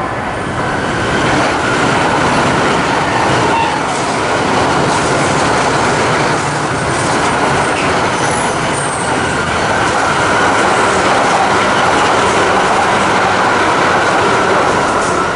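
Shinkansen train, an E2-series set coupled to an E3-series 'Tsubasa', passing close by on the elevated line: a loud, steady rush of wheel, rail and air noise that grows slightly louder in the second half.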